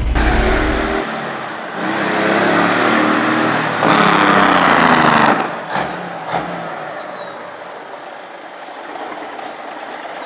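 Semi truck's diesel engine and exhaust heard from inside the cab, loud and working hard for about the first five seconds, then dropping off suddenly to a quieter steady run, with a couple of short knocks just after.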